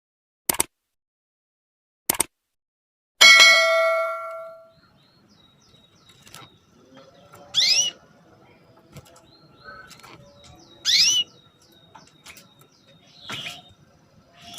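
Two short clicks, then a bell-like chime that rings for about a second and a half. After it a female canary gives sharp 'cuit' call notes that sweep quickly down in pitch, two loud ones about three seconds apart and a weaker one later, over faint chirping.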